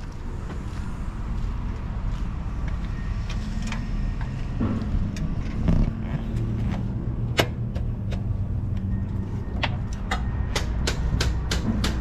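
Heavy truck's diesel engine idling with a steady low rumble, overlaid by sharp clicks that grow into a quick run of about three or four a second near the end.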